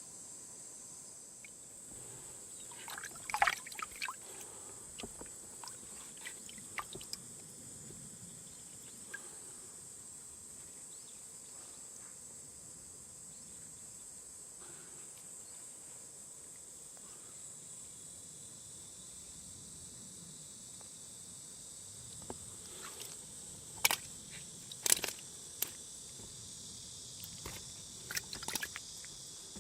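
Steady high-pitched chirring of crickets or other night insects. A few sharp clicks and knocks come in two clusters, one about three seconds in and one near the end.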